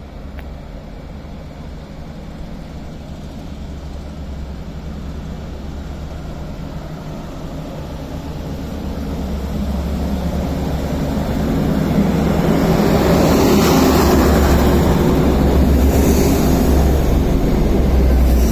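Class 175 diesel multiple unit pulling away and passing close by: a low diesel engine drone under wheel and rail noise that grows steadily louder and is loudest over the last six seconds or so.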